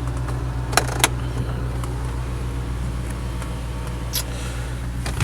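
Audi S4's 4.2-litre V8, with aftermarket downpipes and a catless cat-back exhaust, idling steadily, heard from inside the cabin. Two sharp clicks come about a second in and another near four seconds.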